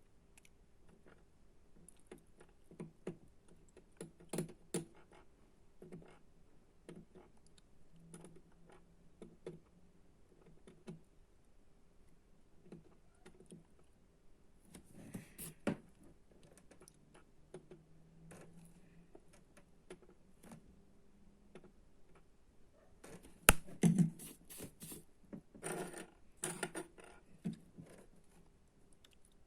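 Irregular light clicks, taps and scrapes of small electronic parts and hand tools being handled on a workbench during assembly of a small LED circuit kit. There is a faint steady hum underneath, and a sharper cluster of clicks about three-quarters of the way through.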